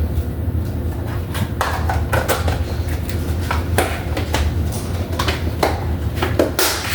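Kitchen handling noises: a string of short knocks and clinks of dishes, utensils and cupboard or drawer fittings, over a steady low hum.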